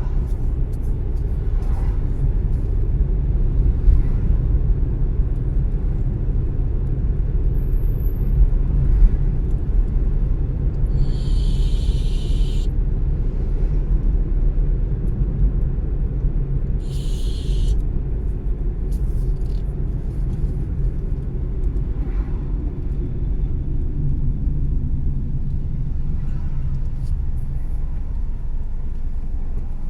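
Car driving: a steady low rumble of engine and road noise, with two short hisses about a third and halfway through.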